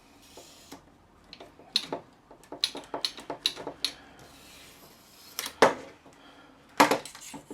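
Parts of a telescopic suitcase handle mechanism being handled: a run of light clicks and taps, then two louder sharp knocks late on.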